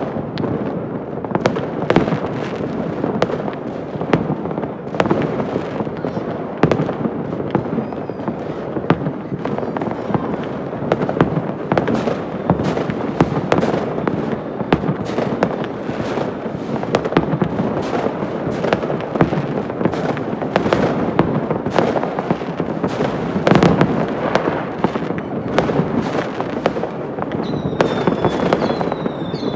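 Many fireworks going off at once: continuous crackling and rumbling with frequent sharp bangs, and a few high whistles near the end.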